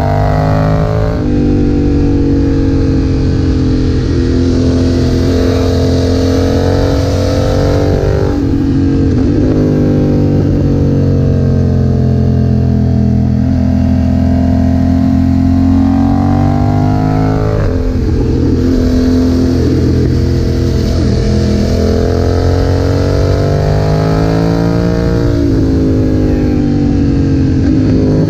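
BMW F900R's parallel-twin engine running hard through a Leo Vince aftermarket exhaust while riding. The note rises and falls with engine speed, with sharp changes in pitch about every eight seconds.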